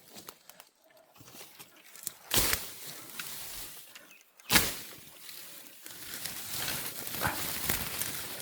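Footsteps and rustling through outdoor undergrowth, with two louder crunching steps about two and four and a half seconds in, then steady rustling as the walking continues.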